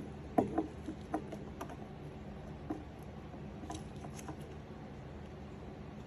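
A few light clicks and taps, mostly in the first four seconds, as an EL34 power tube's pins are lined up with its socket and worked in by gloved hands, over a faint steady hum.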